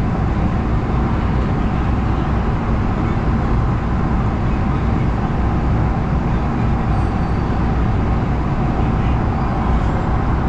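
LA Metro A Line light-rail train running between stations, a steady, loud rumble and rush of track and motor noise heard from inside the car.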